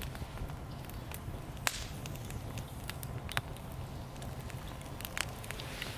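Wood fire crackling in a small campfire stand, with irregular sharp pops over a steady low hiss.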